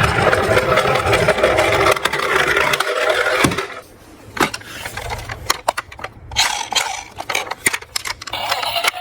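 Small toy cars, diecast ambulances among them, rolling and scraping down a toy slope with a steady rattling rumble for about three and a half seconds. After that come a series of sharp clicks and knocks as the cars clatter and bump into one another.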